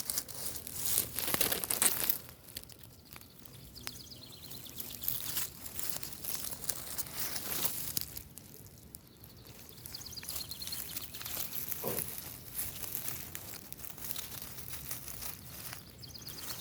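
Irregular rustling and crinkling close to the microphone, as dry ground cover and moss are moved aside by hand.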